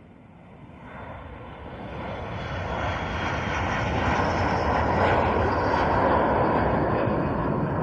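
Airplane engines growing from faint to loud over about four seconds and then holding loud: an aircraft passing close on takeoff or climb-out.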